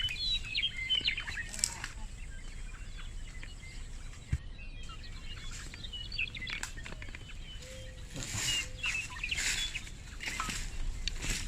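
Small birds chirping in many short, high calls, with brief rustling noises that grow busiest about two-thirds of the way through.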